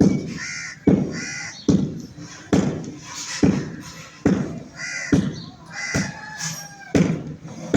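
Chickens squawking and calling, over a steady run of knocks or thumps repeating a little under once a second.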